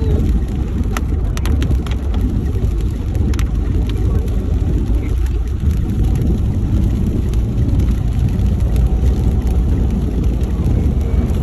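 Road vehicle driving, a steady low rumble of engine and tyre noise, with a few sharp clicks.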